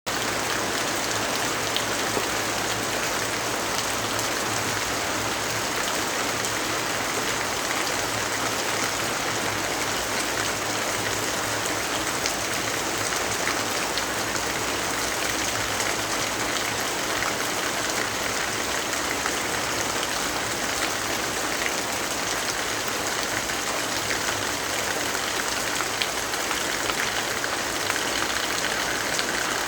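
Steady rainfall: an even hiss of rain with scattered small drop ticks.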